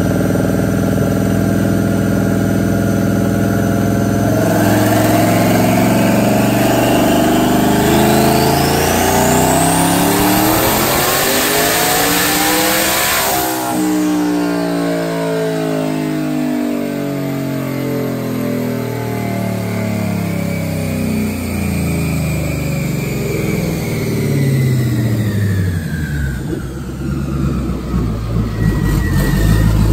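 S550 Ford Mustang engine making a full-throttle pull on a chassis dyno. The revs climb steadily for about ten seconds with a high whine rising alongside, then the throttle closes and the revs fall away as the car coasts down, settling toward a rough idle near the end.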